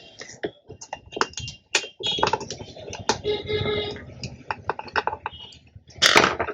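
Irregular small clicks and taps of hand tools working on a subwoofer amplifier board to remove a power transistor, over a steady hiss, with a louder rasping burst near the end.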